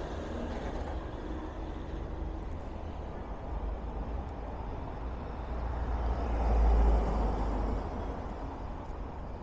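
Road traffic going by, one vehicle passing louder and swelling then fading about six to seven and a half seconds in, over a steady low rumble of wind on the microphone.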